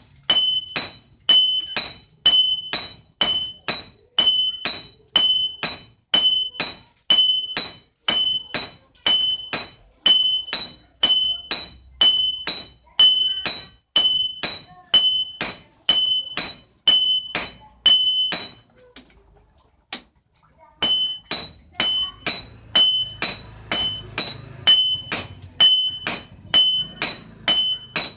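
Hammer blows on steel over an anvil, about two a second, each with a bright metallic ring, while a golok blade is forged from leaf-spring steel. The hammering stops for about two seconds some two-thirds of the way through, then starts again at the same pace.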